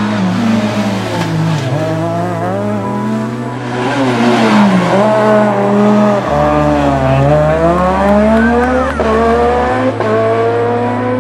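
Rally car engine revving hard, its pitch climbing and dropping again and again through gear changes and lifts of the throttle.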